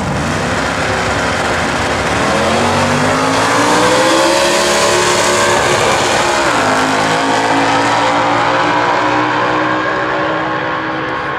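Drag-racing engines accelerating hard at full throttle. The pitch climbs for several seconds, drops at a gear change about six and a half seconds in, then climbs again.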